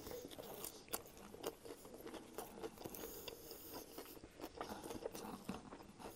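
Close-miked biting and chewing of a toasted sub sandwich with potato chips stuffed inside: a bite, then steady chewing full of small crunches and crackles from the chips and crisp bread.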